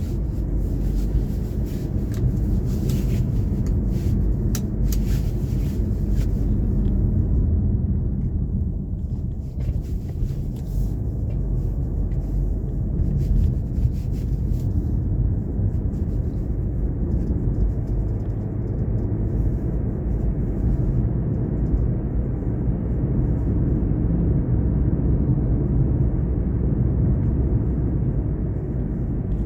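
Car driving along, a steady low rumble of engine and road noise, with scattered light crackles over the first several seconds.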